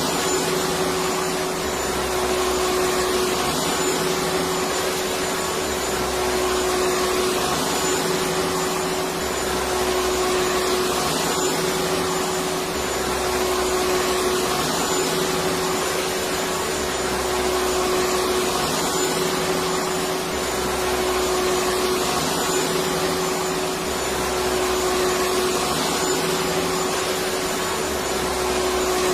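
Electric vacuum cleaner running steadily: a continuous whooshing with a steady hum, and a faint low pattern repeating about every four seconds, as in a looped recording.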